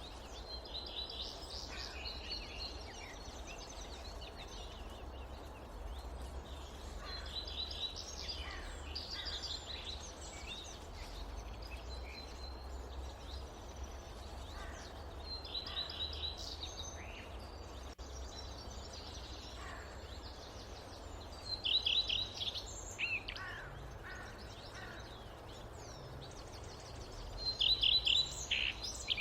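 Forest birds singing short, rapid trilled phrases every few seconds, the loudest two near the end, over a steady low rumble of wind.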